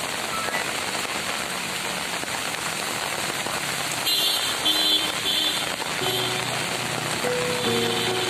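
Steady hiss of heavy rain falling on a waterlogged street. A faint melody of background music comes in over it about four seconds in.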